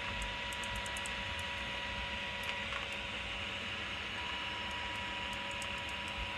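Small electric motors of a homemade robot vacuum running steadily: a thin whine over an even hiss, with faint light ticks.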